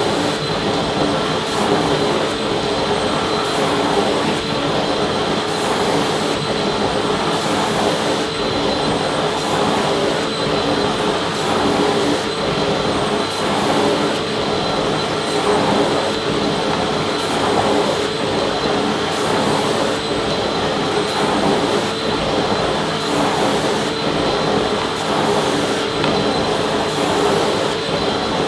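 Vacuum cleaner running steadily: a continuous rush of air with a steady high whine and a lower hum running through it.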